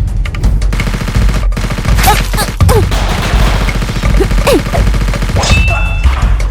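Rapid gunfire sound effects, shots in quick succession, with a few short falling whistles about two seconds and four and a half seconds in.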